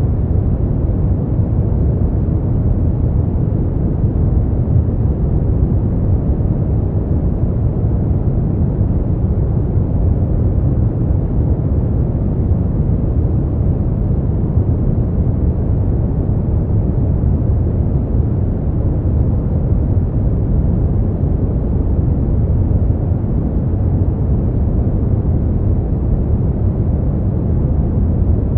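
Continuous, unchanging noise played for sleep, deep and rumbling, with most of its weight in the low end and only a soft hiss above.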